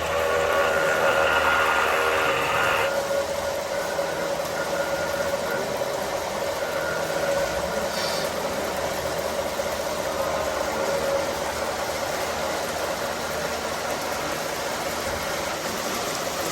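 Radio-controlled model trucks and tractors running: a steady mechanical drone with a steady whine, and a louder, brighter layer of whine that cuts off about three seconds in.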